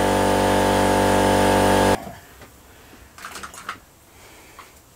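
Electric air compressor running steadily, then stopping abruptly about two seconds in, followed by a few faint clicks and knocks of handling.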